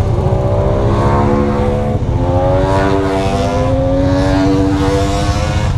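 Motorcycle engine pulling under acceleration. Its pitch climbs, drops sharply at gear changes about two seconds in and again about a second later, then climbs again.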